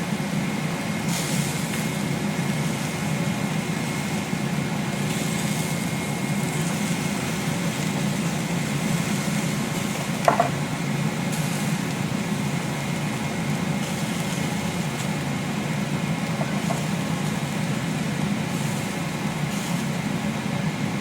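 Steady low machine hum, like a motor or fan running without change, with a single short knock about ten seconds in.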